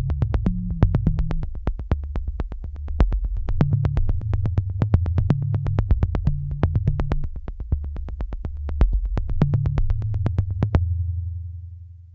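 Electronic background music: a synthesizer bass line stepping between notes under steady percussion clicks, about four a second. Near the end the percussion stops and a last held bass note fades out.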